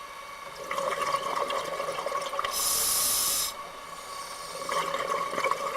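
Underwater scuba breathing: crackling water bubbles and a loud hiss of air lasting about a second, a little over two seconds in, over a faint steady hum.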